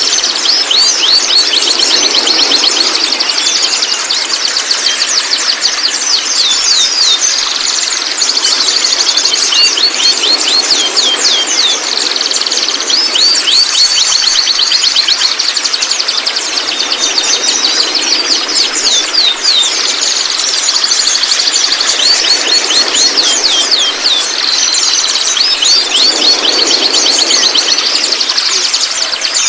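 Juvenile white-rumped shama (murai batu trotol) calling: a continuous stream of rapid, high chattering notes and trills, broken now and then by a longer sliding whistle.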